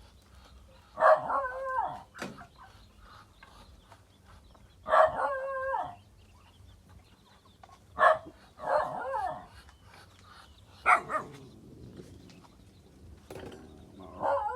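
An animal crying out again and again: about five drawn-out cries, each roughly a second long and falling in pitch, a few seconds apart.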